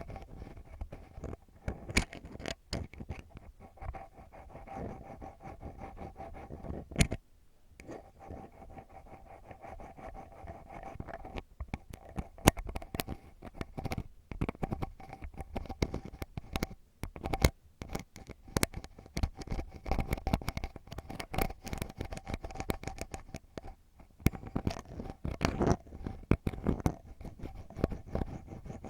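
Ear pick scratching and scraping deep inside an ear-shaped ASMR microphone: a dense, irregular run of close scratches and sharp clicks, with brief pauses about seven seconds in and again near the end.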